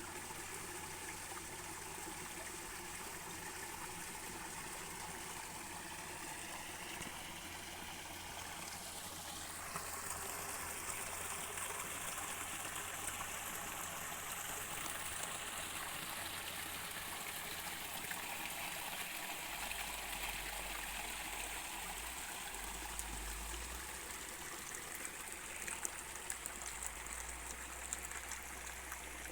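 Stream water running and trickling steadily, a little louder from about ten seconds in, with a few light clicks near the end.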